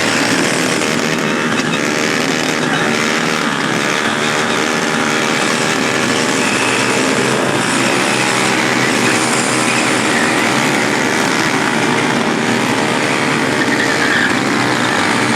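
Motorcycle engine running steadily, its pitch wavering slightly up and down.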